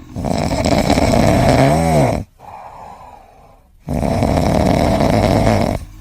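A pet snoring loudly: two long snores of about two seconds each, with a short pause between them.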